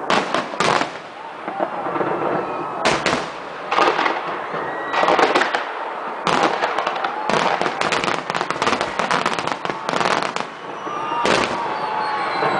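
Fireworks going off in quick succession: repeated bangs and dense crackling bursts throughout.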